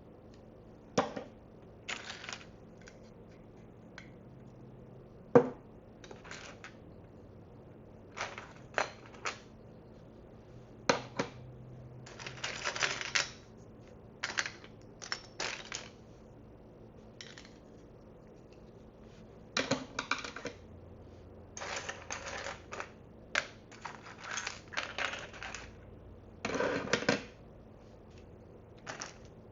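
Small plastic miniature food pieces and tiny dishes being handled, picked up and set down: scattered light clicks and clatters, with a few longer runs of shuffling. The sharpest click comes about five seconds in.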